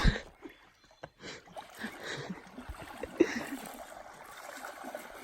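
Water sloshing and trickling as someone moves through shallow water, with a sharp knock at the very start and a tap about three seconds in.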